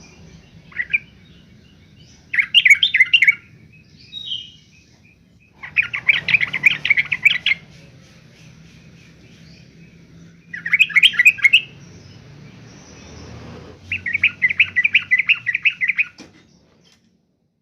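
Yellow-vented bulbul singing: four short phrases of rapid chattering notes, each a second or two long, a few seconds apart, with a few single call notes between them.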